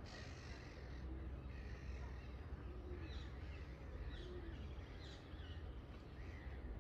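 Faint bird calls: a series of short, high, falling chirps, clustered about three to six seconds in, over a steady low rumble.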